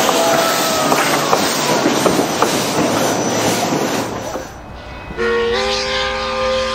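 Steam train's cars and caboose rolling past: wheels clicking over rail joints, with a few short squeals, fading out about four and a half seconds in. Music starts just after five seconds.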